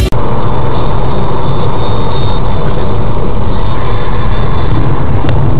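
Loud, steady vehicle engine and road noise, as picked up by a dashboard camera's microphone inside the vehicle.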